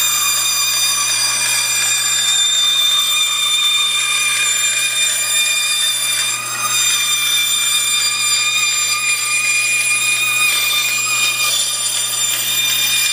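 Electric power tool motor running steadily with a high whine while wood parts are cut in the shop, then switched off suddenly at the end.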